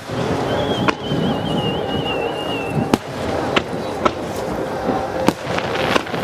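Aerial fireworks bursting overhead, about six sharp bangs spaced irregularly, with a thin wavering whistle lasting about two seconds near the start.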